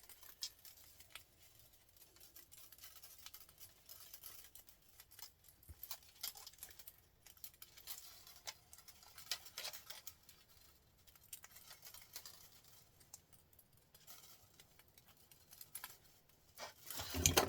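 Faint, irregular light clicks and small rattles, with a louder clatter near the end.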